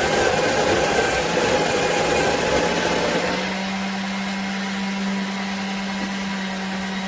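Ollygrin electric conical burr coffee grinder grinding beans. About three seconds in, the grinding noise thins out and leaves a steady motor hum as the burrs run on.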